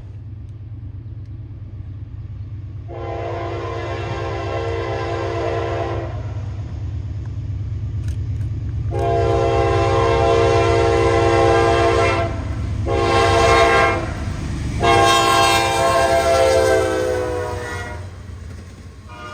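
Approaching diesel locomotive sounding its multi-chime air horn in the grade-crossing pattern, long, long, short, long, over the low rumble of the engine and train. The final long blast is the loudest and sags slightly in pitch at its end.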